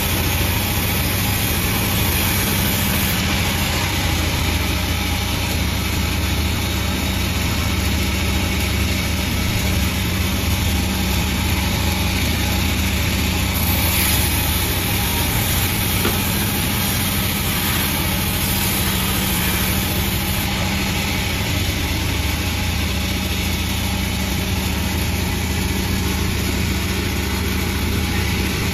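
Panda36 sawmill machine running steadily, a constant engine-like hum with noise spread across the range and no clear breaks.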